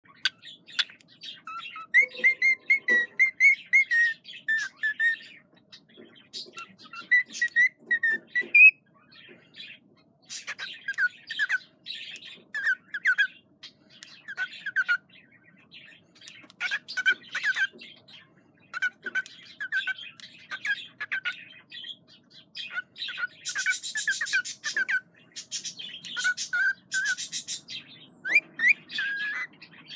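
Cockatiel chirping and whistling: many short repeated calls, some rising, in runs with brief pauses between them.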